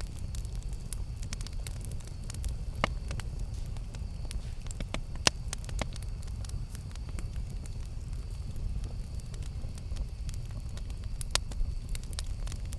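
Campfire crackling over a low steady rumble, with scattered sharp pops, the loudest about three, five and eleven seconds in.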